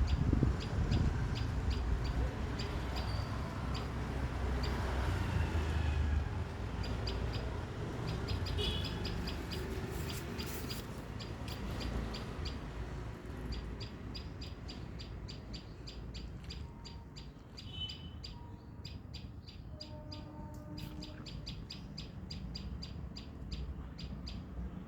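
Small birds chirping: short, high chirps repeated steadily, a few a second and faster in the second half, over a low steady rumble.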